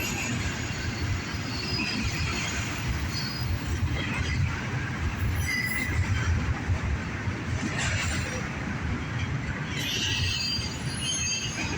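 CSX intermodal freight train rolling past: a steady rumble of cars and wheels on the rails, with brief high wheel squeals about halfway through and again near the end.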